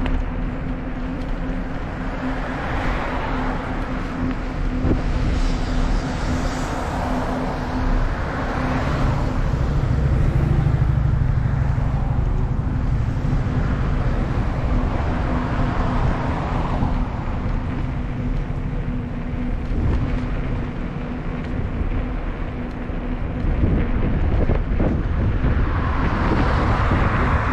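Cars passing on a road, heard from a moving bicycle: several swell up and fade away over a steady low rumble of wind and rolling noise.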